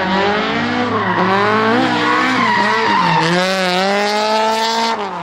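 Toyota Corolla AE86's 1.6-litre 4A-GE four-cylinder engine revving hard, its pitch climbing and then dropping back sharply about three times, with tyres squealing in a skid.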